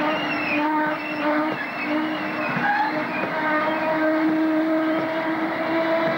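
Freight train of loaded coal hopper wagons rolling past the platform. The steady rumble carries several wavering metallic squeals from the wheels.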